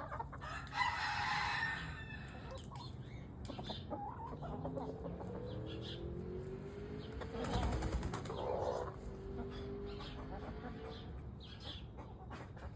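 Bantam chicken clucking, with drawn-out calls that slide in pitch through the middle part. Two short noisy bursts come about a second in and about eight seconds in.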